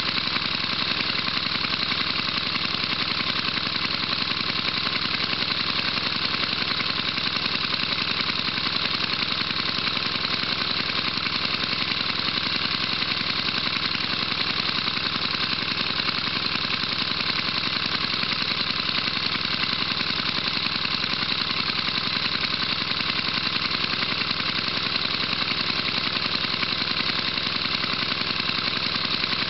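1975 Tecumseh 5 hp single-cylinder small engine running steadily at an even speed.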